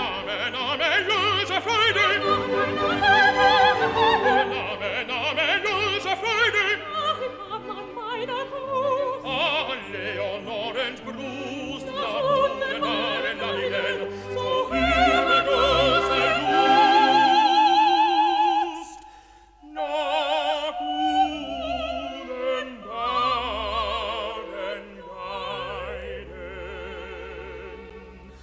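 Operatic singing with wide vibrato over an orchestra. The music drops away briefly about two-thirds of the way through, then resumes more quietly.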